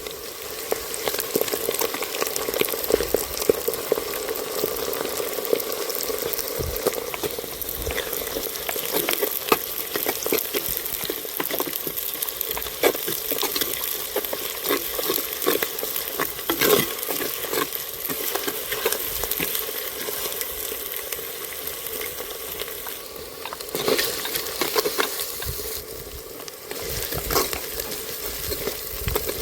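Chicken frying and sizzling in a pot as it is stirred, with frequent scrapes and knocks against the pot.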